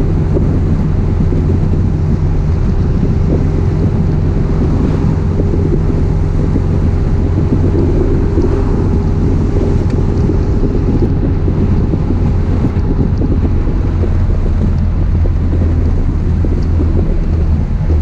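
1966 Triumph Spitfire's four-cylinder engine running at a steady cruise, heard from the open cockpit with wind rushing over the microphone.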